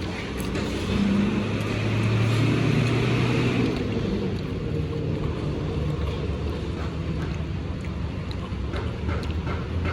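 A motor vehicle's engine running close by, louder for a few seconds about a second in, over a steady low rumble.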